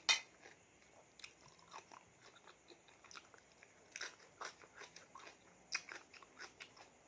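A person chewing a mouthful of seafood salad, with irregular wet crunches and mouth clicks.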